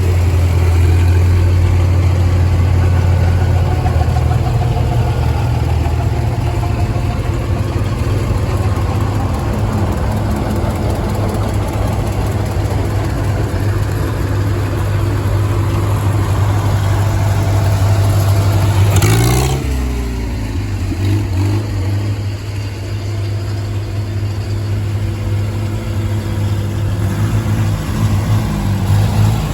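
Old farm tractor engines running steadily at low speed with a deep, even hum. About two-thirds of the way in there is a brief rush of sound, and after it the engine sound is a little quieter.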